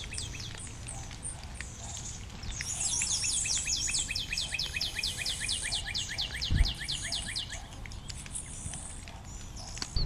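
Small songbird chirping at a nest, most likely nestlings begging: a fast run of short, high, falling chirps, about six a second, lasting about five seconds, over fainter scattered chirps. A soft low thump sounds near the end of the run.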